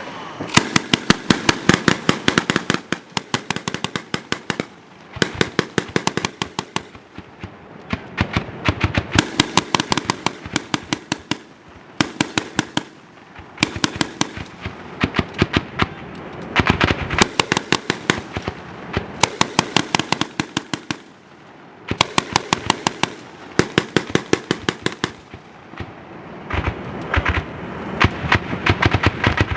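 MK 19 40 mm automatic grenade launcher firing in repeated bursts, each a rapid string of sharp reports at several a second, with short pauses between bursts.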